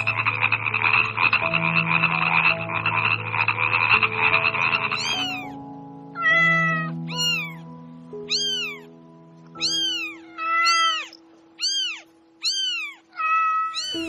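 A frog calling with a fast, rasping trill for about five seconds. Then a kitten mews repeatedly, about ten short high-pitched meows that each rise and fall in pitch.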